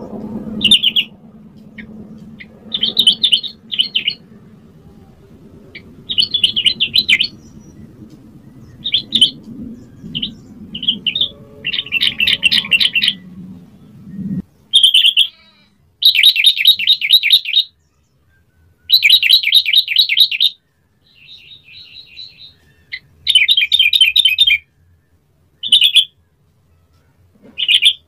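Yellow-vented bulbul singing: short phrases of rapid, chattering notes, repeated every second or two, with a low steady hum under the first half that stops abruptly about halfway.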